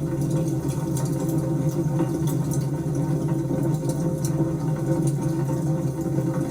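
Wood fire burning: a steady low rumble of flames with irregular sharp crackles and pops scattered through it.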